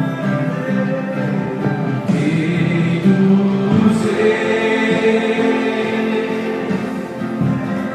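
A group of voices singing a gospel hymn together, with sustained held notes.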